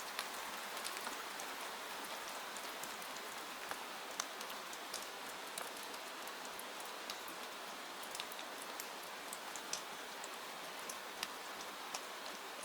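Steady rain falling, an even hiss dotted with scattered sharp clicks of drops.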